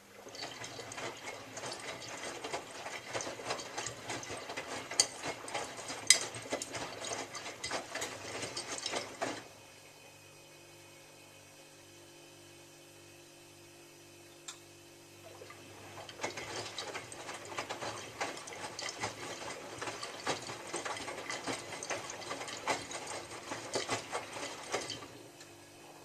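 Miele W3744 washing machine drum tumbling wet laundry with a dense sloshing, crackling rattle for about nine seconds, pausing for several seconds with only a low motor hum, then turning again for about nine seconds: the wash action's back-and-forth drum rotation.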